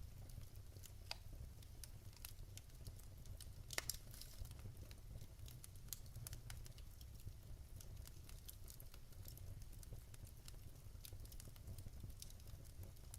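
Wood fire in a fireplace crackling quietly, with scattered sharp pops and a brief cluster of louder ones about four seconds in, over a low steady rumble.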